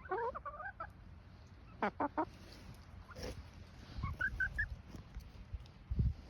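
Backyard chickens calling: a short warbling call at the start, three quick squawks about two seconds in, and a few soft high peeps a little after four seconds, with some low knocks underneath.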